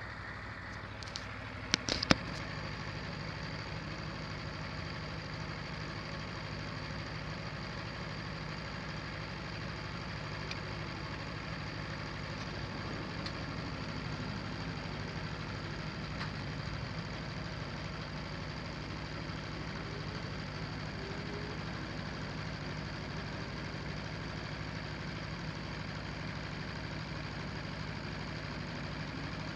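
Aprilia Tuono V4 1100 Factory's V4 engine idling steadily, with a few sharp clicks in the first two seconds.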